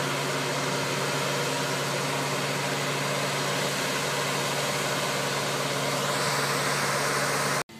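Engine of a boat travel lift running steadily: a low hum under a loud hiss. It cuts off abruptly near the end.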